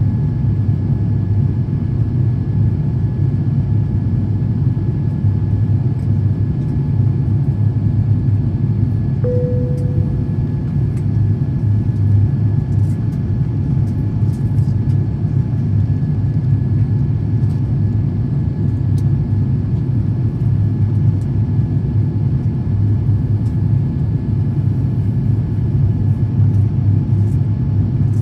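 Steady cabin noise of an Airbus A350-1000 in flight: an even, dense low rumble from its Rolls-Royce Trent XWB engines and the airflow, with a faint steady whine above it. A short tone fades out about nine seconds in.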